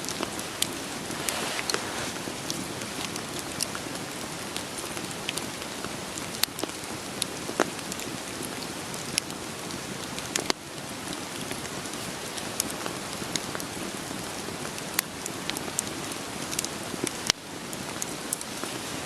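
Steady rain falling, mixed with a wood fire crackling, with irregular sharp snaps and pops from the burning logs.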